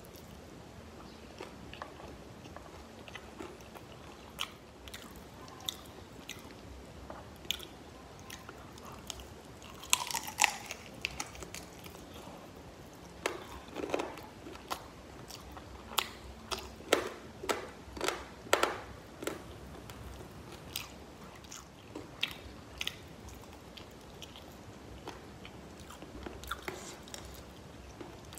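Close-miked chewing and biting of crispy fried chicken, with scattered sharp crunches that come loudest and thickest partway through.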